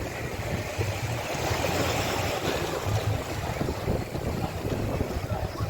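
Sea surf washing onto a beach, with wind buffeting the microphone in an uneven low rumble.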